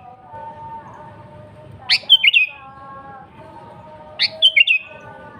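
Sooty-headed bulbul song: two short, loud phrases about two seconds apart, each a quick rising note followed by a few lower bubbling notes, over fainter steady tones.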